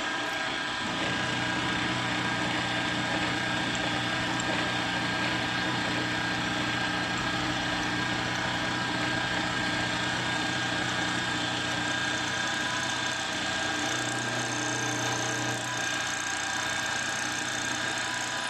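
Milling machine running steadily while cutting an adjustment slot in a small metal plate. A steady hum with a deeper tone that comes in about a second in and eases near the end.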